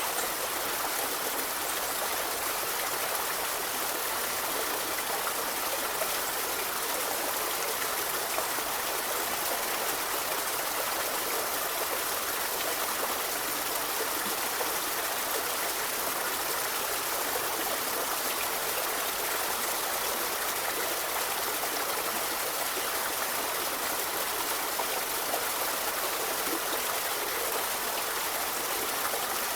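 River in a forest flowing steadily: an even, unbroken rush of running water.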